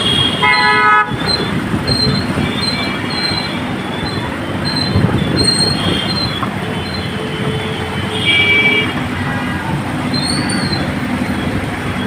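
Train running past with a steady rumble of wheels on rails and a thin, high squealing tone that comes and goes. A short horn blast sounds about half a second in and another around eight seconds in.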